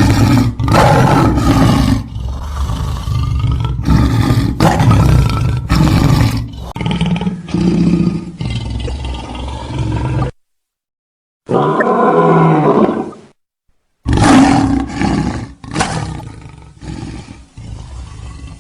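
Lion roaring again and again, a string of loud, rough roars. It breaks off about ten seconds in, and after two short silences come two more clips of animal calls.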